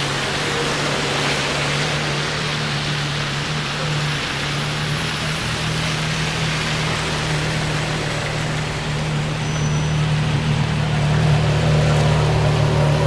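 Gemballa Mirage GT's V10 engine idling steadily, under a broad rushing background noise. It gets a little louder and fuller about ten seconds in.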